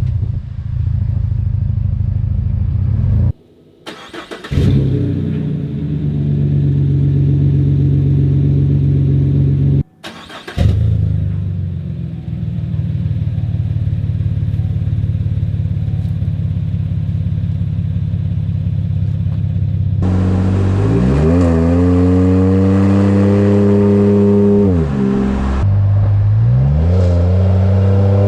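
A 2017 Chevy Silverado's 4.3-litre V6 running through a dual exhaust fitted with cheap dual-outlet 'racing mufflers', heard while driving. It runs steadily at first, then in the last third the revs climb, hold, drop, and climb again under acceleration. The tone is deeper and more mellow, less raspy at higher RPM.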